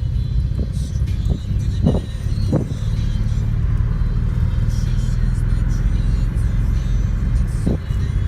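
Steady low rumble of a car heard from inside the cabin, with music playing along.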